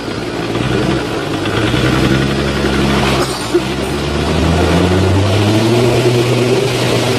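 Off-road 4x4's engine revving under load, its pitch climbing slowly over a few seconds, holding, then dropping near the end.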